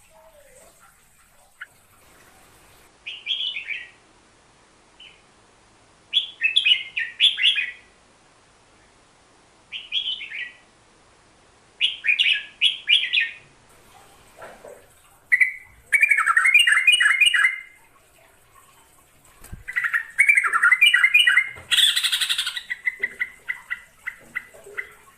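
Merbah jambul (crested bulbul) singing in short phrases of quick chirping notes that come every few seconds, the phrases growing longer and fuller in the second half.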